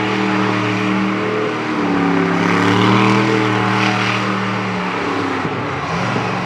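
Monster truck engine running hard under throttle, its pitch climbing about two seconds in, dropping back near five seconds and rising again near the end.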